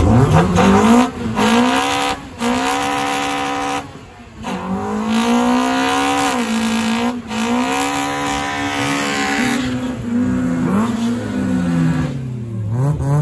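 A car engine held at high revs during a burnout, tyres spinning and squealing. The revs drop sharply and climb back several times as the throttle is lifted and reapplied, then fall away near the end.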